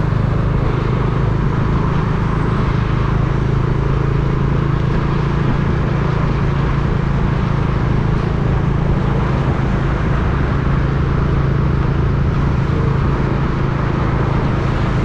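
A motor vehicle's engine running at a steady pitch with road and traffic noise, heard from on board while travelling.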